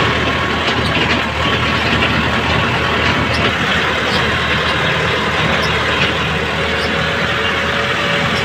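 Small tractor's engine running steadily while ploughing a field.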